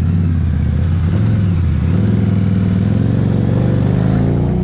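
Harley-Davidson Street 500's 500 cc V-twin, fitted with an aftermarket Vance & Hines exhaust, running at low speed in traffic. About a second and a half in it begins rising steadily in pitch as the bike accelerates.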